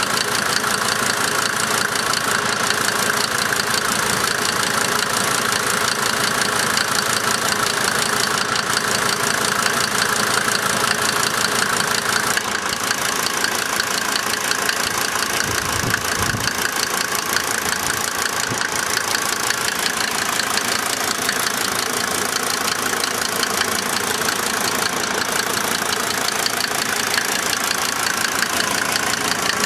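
1990 Mercedes-Benz 300D 2.5 Turbo's five-cylinder turbodiesel idling with steady diesel clatter. The idle is rough. A brief low rumble comes about halfway through.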